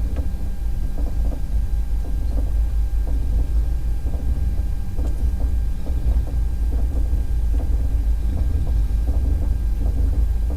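Moving passenger train: a steady deep rumble of the coach running on the rails, with faint irregular clicks over it.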